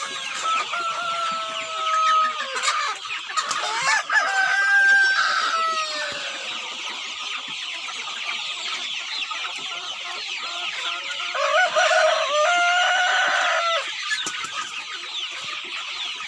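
Local-breed chickens: roosters crowing in long drawn-out calls, the loudest near the end, with hens clucking over a constant dense background of high chirping.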